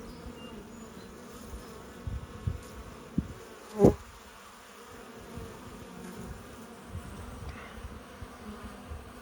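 Honeybees buzzing steadily around a log hive. A few soft low bumps come around two to three seconds in, and one brief, louder bump close to the microphone about four seconds in.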